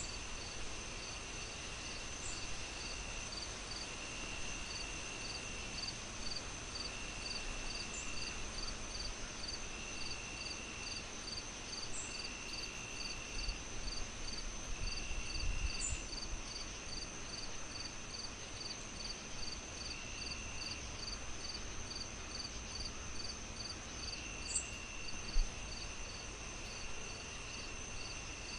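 Crickets chirping in layers: a high chirp evenly paced at a little over two a second, a steady high trill, and a lower trill in bouts of about a second and a half. Under them runs the low crackle of a fire, with one sharp pop near the end.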